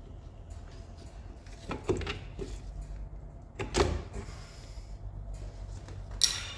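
Three sharp knocks from hand work on rear drum-brake parts, the last one ringing briefly, over a low steady hum.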